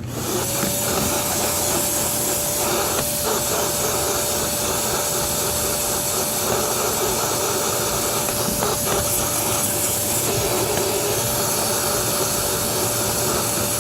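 Vacuum cleaner switched on and vacuuming car carpet: its motor whine climbs for a moment and then holds one steady pitch over an even rush of suction.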